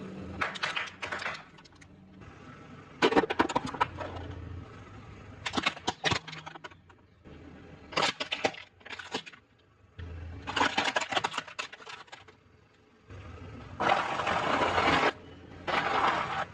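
Crunchy fried food being crushed, in repeated bursts of crisp crackling and cracking separated by short pauses.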